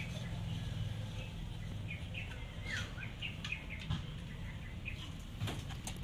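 Small birds chirping intermittently: short high chirps and a few quick falling notes.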